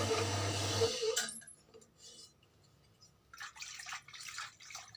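Power-driven honing stone polishing a motorcycle cylinder bore, running steadily with a low hum and stopping abruptly about a second in. Faint short scraping and clinking handling noises follow near the end.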